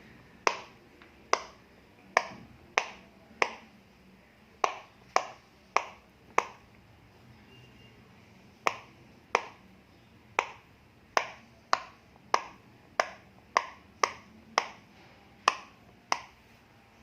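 Bubbles of a soft silicone pop-it fidget toy being pressed one after another from the front side, each giving a sharp pop. About two dozen pops at roughly one to two a second, with a pause of a couple of seconds in the middle.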